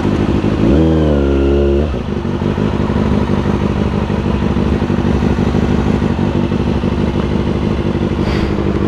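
Engine running at idle, revved once about a second in: the pitch climbs quickly, holds for about a second, then falls back to idle.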